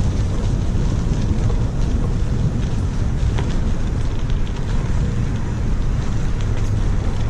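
Wind buffeting the microphone during a bicycle ride: a steady, loud low rumble with faint scattered ticks.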